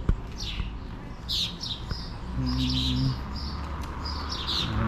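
Birds chirping again and again, short high calls that sweep down in pitch, with a brief low hum about halfway through and a single knock right at the start.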